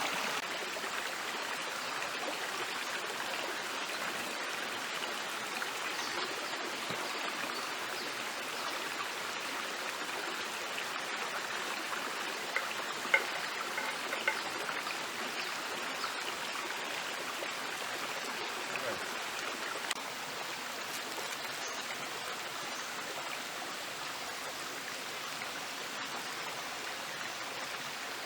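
Steady rushing of a stream flowing, with a few short sharp clicks around the middle.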